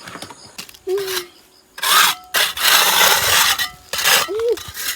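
A tool scraping through leftover wet cement mortar in three rough strokes, the middle one the longest, with two brief vocal sounds, one before and one after.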